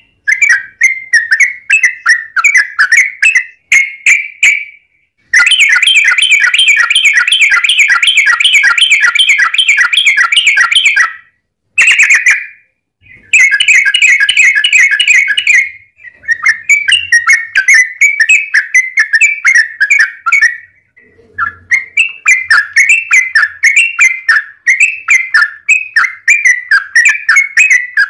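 Yellow-vented bulbul (trucukan) singing loudly: quick bubbling chattering notes, broken by long, rapid rolling runs.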